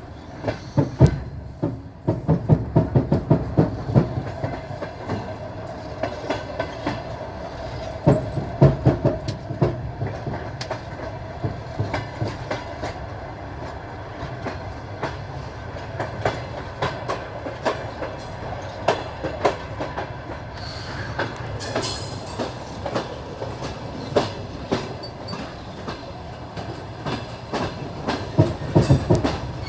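Railway carriage wheels clacking over rail joints over a steady rolling rumble, the clacks coming in quick groups several times.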